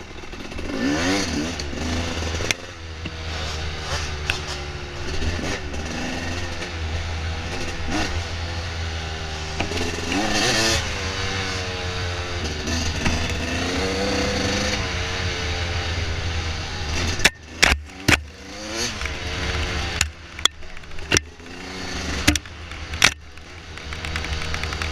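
Dirt bike engine revving up and down repeatedly as it is ridden on a trail. In the last third the engine eases off and a run of sharp knocks and clatter comes through.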